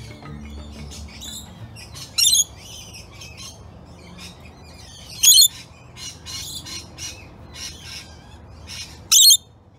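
Birds calling: many quick chirps and whistles, broken by three loud, shrill squawks about two, five and nine seconds in.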